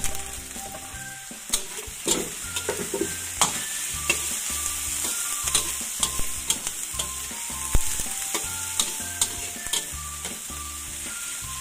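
Garlic chive flower stalks and carrot strips sizzling in a hot wok, tipped in at the start and then stir-fried with a metal spatula that scrapes and clicks against the pan.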